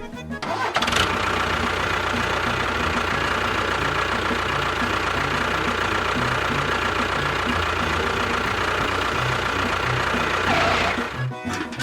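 A small motor running steadily with a high whirring whine, spinning up about a second in and winding down near the end; faint background music underneath.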